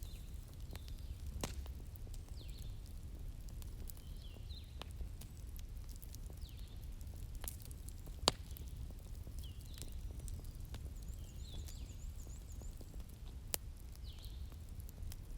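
Wood bonfire crackling with scattered sharp pops, the loudest about eight seconds in, over a low steady rumble of the flames. Short high chirps of small birds recur throughout, with a quick trill a little past the middle.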